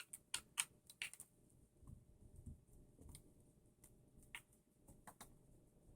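Faint, scattered light clicks and taps of small screws and a screwdriver being handled, several in the first second and a few more later, with near silence between.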